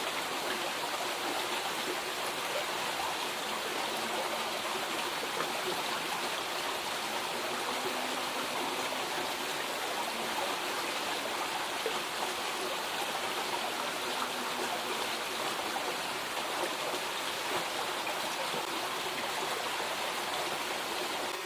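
Steady rushing of flowing river water, an even hiss with no pauses.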